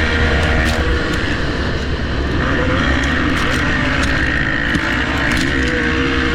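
250 cc two-stroke dirt bike engine running steadily, its pitch wandering up and down a little.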